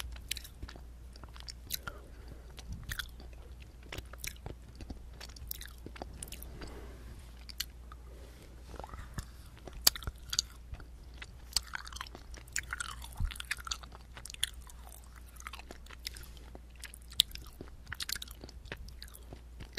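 Close-miked eating sounds: chewing and biting, with many short, irregular wet mouth clicks, a few sharper ones standing out.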